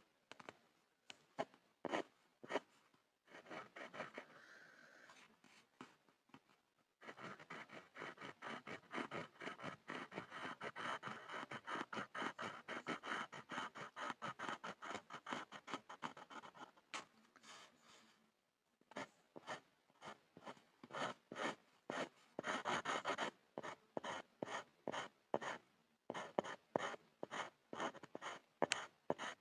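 Pencil scribbling on a board: a few separate scratchy strokes, then about ten seconds of dense, continuous scribbling, then quick repeated strokes, roughly three a second.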